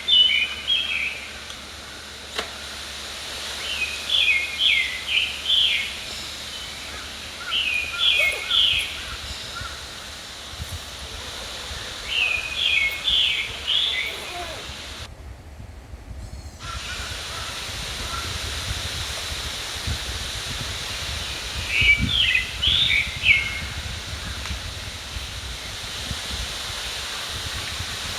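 A songbird singing short whistled phrases, one every few seconds, over the steady rush of a babbling mountain stream. The sound cuts out briefly about halfway through, and a low rumble of wind comes in during the second half.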